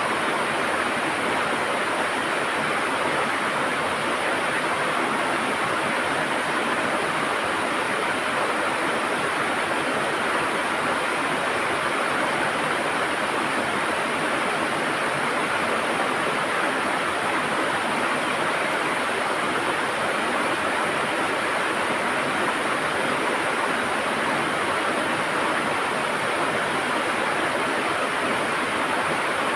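River water rushing and gurgling over rocks, a steady unbroken sound.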